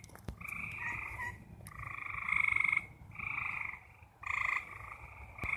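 Frogs calling at night: a series of short buzzing trills, about one a second, each lasting half a second to a second.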